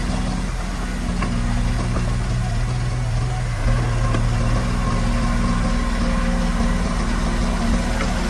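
Diesel engine of heavy earthmoving equipment running steadily at a low, even speed, with a few faint clicks.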